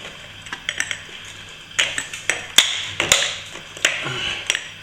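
Metal plastering tool knocking and scraping against a container while mixing a small batch of plaster: sharp taps about a second apart, with scraping between them.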